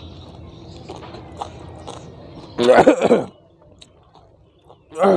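A man chewing a mouthful of raw banana flower, with faint crisp clicks of the bracts between his teeth. About two and a half seconds in there is a brief, loud vocal sound, and another starts right at the end.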